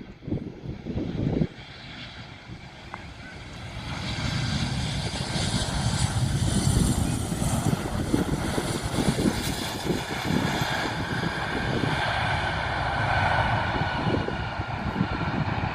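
Airplane engines swelling to a loud steady run about four seconds in, with a high whine over a deep rumble. Loud low buffeting is heard in the first second and a half.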